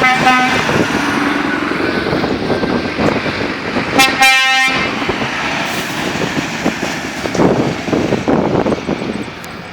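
Scania truck horn sounding twice: a short blast right at the start and a longer blast about four seconds in, over the steady rumble of the trucks' engines.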